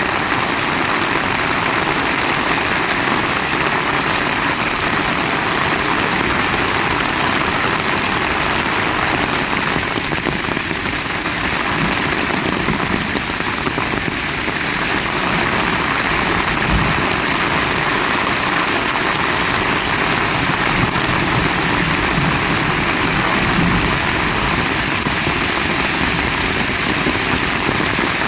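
Heavy rain pouring steadily in a dense, even hiss.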